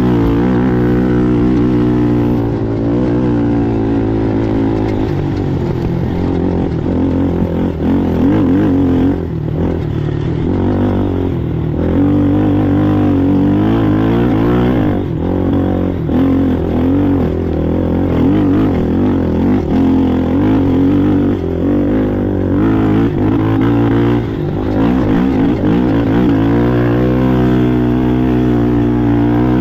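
ATV engine running hard under racing load, its pitch rising and falling constantly as the throttle is worked over rough ground.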